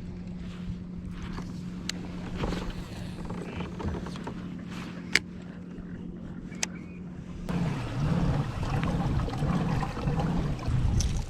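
A steady low motor-like hum at one pitch, which starts to waver about seven seconds in as a rush of wind or water noise rises, with a few sharp clicks before that.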